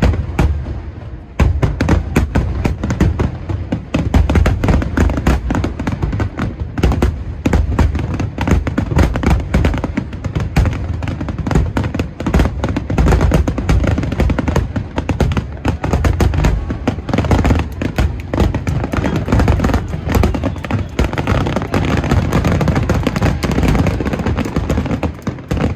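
Dense barrage of aerial fireworks shells bursting in rapid succession, deep booms and crackles overlapping almost without pause, with a brief lull about a second in and a sudden drop-off near the end.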